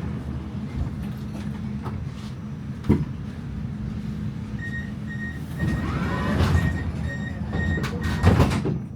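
Inside a tram: the tram's steady low electrical hum, a single knock about three seconds in, then a run of short high beeps from the tram's door warning while the sliding doors work.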